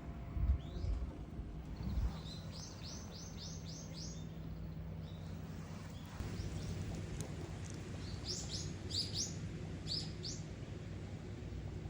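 A small songbird calling in quick runs of short, high, falling chirps, two runs several seconds apart, over a steady low hum. A couple of low thumps come in the first two seconds.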